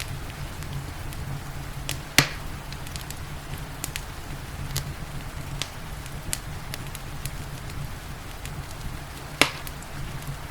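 Wood fire crackling with scattered small clicks and two louder sharp pops, one about two seconds in and one near the end. Underneath are a steady low rumble and a soft hiss of rain.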